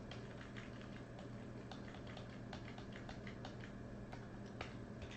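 Faint, irregular clicking of a computer keyboard being typed on, over a low steady hum.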